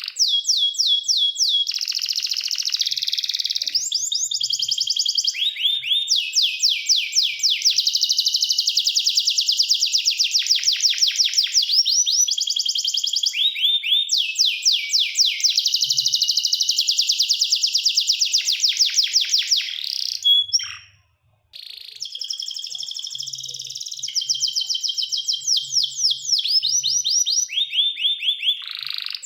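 Domestic canary singing a long song of rapid trills, each made of many fast repeated notes, in runs of a few seconds each, one after another. The sound cuts out briefly about two-thirds of the way through.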